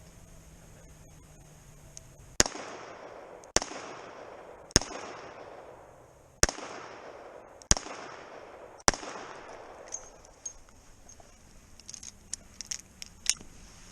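Six revolver shots, about a second apart with a slightly longer gap after the third, each trailing off in an echo. Smaller sharp clicks and pops follow near the end.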